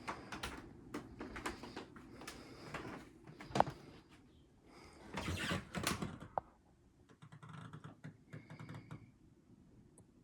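Scattered clicks and knocks, irregular and unevenly loud, with the loudest cluster about halfway through.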